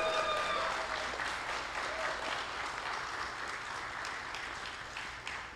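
A room of people applauding, the clapping gradually thinning out, with one voice holding a call over it at the start.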